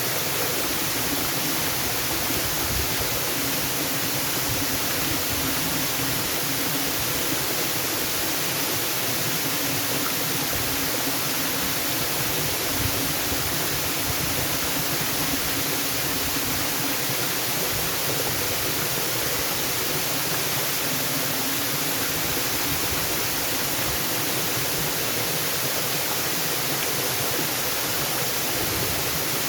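Waterfall rushing steadily, a continuous even wash of falling water.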